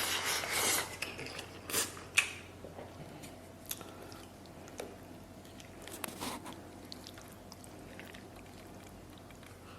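Close-miked eating: a man chewing a mouthful of spicy maocai. There is a loud burst of noise in the first second and a few sharp clicks around two seconds in, then quieter, scattered chewing sounds.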